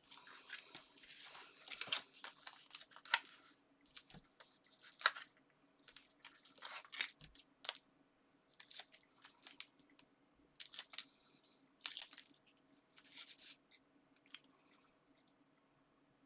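Paper and card being handled: short, irregular rustles, scrapes and taps, denser for the first two seconds or so.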